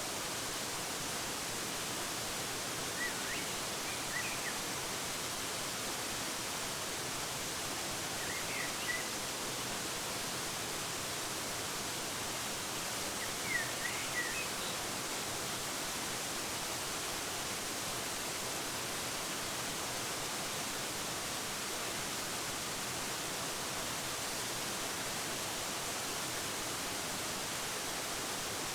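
Waterfall rushing steadily, with a few short bird chirps in the first half.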